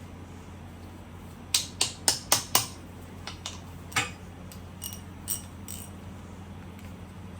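Sharp metallic clicks and clinks of hand tools against a motorcycle engine: about five in quick succession, one more a little later, then a few lighter ringing taps. A steady low hum runs underneath.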